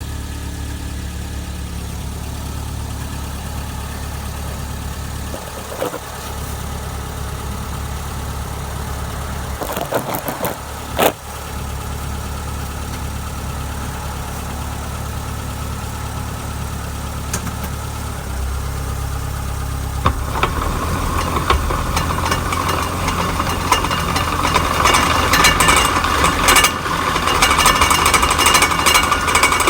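2005 Subaru Outback running with a steady low drone, with a couple of sharp knocks about ten seconds in. From about twenty seconds in, a louder grinding rises over the drone, coming from the rear differential.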